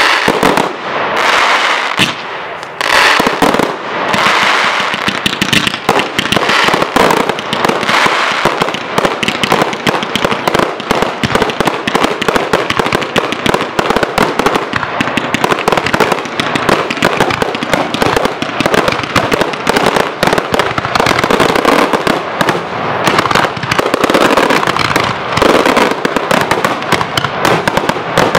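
Fireworks display going off in a dense barrage: aerial shells bursting and stars crackling in a rapid, almost unbroken run of bangs.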